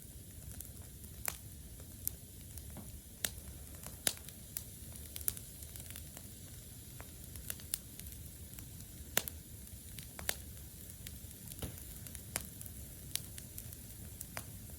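Campfire burning damp wood: a steady low rush of flame with irregular sharp pops and crackles, about one every second.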